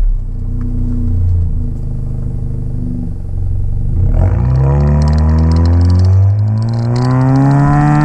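Honda Civic's K20C2 2.0-litre four-cylinder running through a Flowmaster dbx pipe in place of the resonator: a steady note at low revs, then, about halfway in, hard acceleration with the pitch rising, dipping briefly and rising again.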